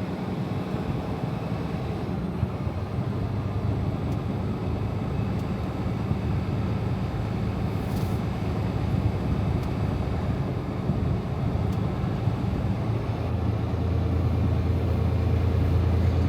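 Semi truck's diesel engine running with a low, steady drone, growing louder in the last few seconds.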